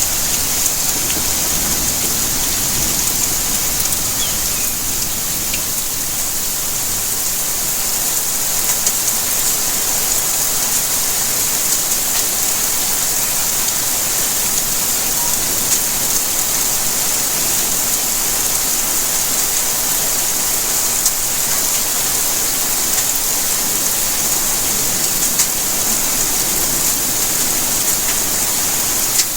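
Steady rainfall: an even hiss of rain with fine pattering of drops on surfaces.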